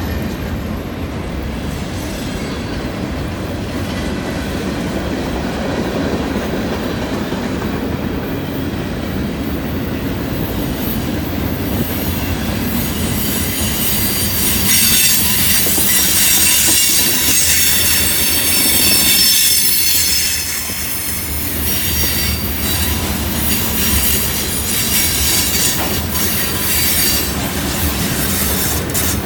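Long freight train's cars rolling past on a curve, with a steady rumble and wheel clatter. From about a third of the way in, the wheel flanges squeal against the curved rail in several high steady tones, loudest about halfway through.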